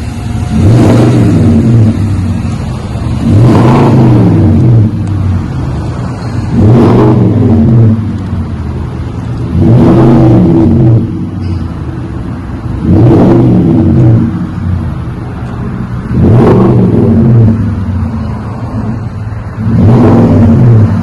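2023 Nissan Titan's 5.6-litre V8 breathing through a dual-in, dual-out Flowmaster 40 muffler, revved from idle seven times in quick blips about every three seconds, each rising in pitch and falling back to a steady idle.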